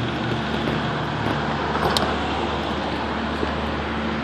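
Steady downtown street traffic noise with a low, steady hum, and a brief sharp click about two seconds in.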